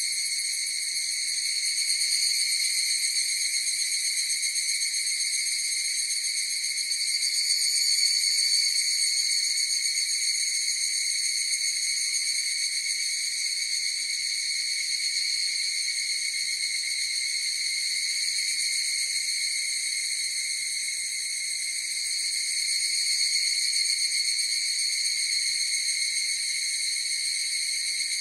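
Chorus of higurashi (evening cicadas, Tanna japonensis) calling: a continuous high, ringing trill that swells louder a few times and eases back.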